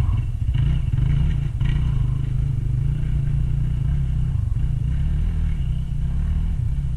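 Dirt bike engine running at low, fairly steady revs.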